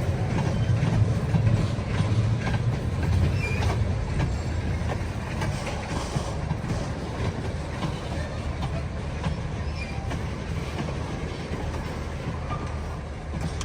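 Freight train rolling past on the rails: a steady low rumble with wheels clicking over the track, loudest in the first few seconds and easing slightly after.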